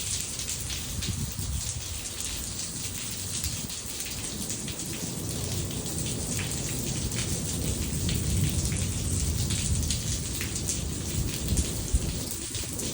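Steady heavy rain falling on a flooded yard, with a low thunder rumble that grows louder in the second half.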